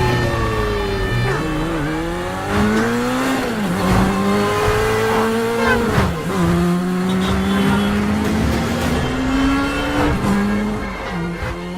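Motorcycle engine revving hard through the gears in a film chase. The pitch climbs and drops sharply at each shift, about five times, with tyre squeals and other traffic mixed in.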